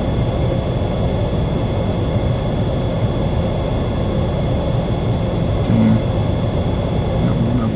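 Wind buffeting the microphone: a loud, steady low rumble, with a faint steady high whine over it.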